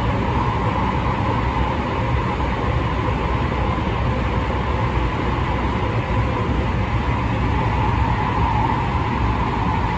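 Interior running noise of a JR West 207 series electric commuter train with a Toshiba IGBT inverter, in a tunnel at steady speed: a continuous rumble of wheels on rail with a steady mid-pitched hum over it, no rise or fall in pitch.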